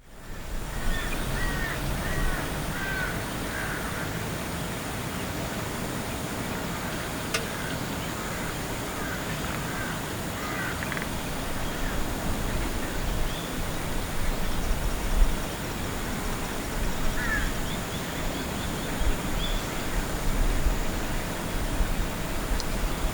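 A bird gives short, harsh calls in several bursts over a steady background of outdoor noise.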